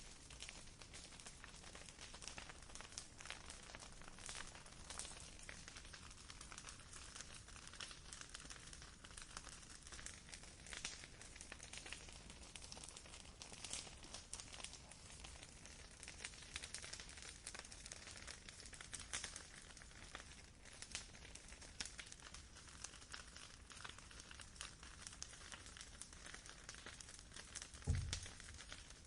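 Campfire crackling: a steady run of small pops and snaps from burning wood, with a soft low thump near the end.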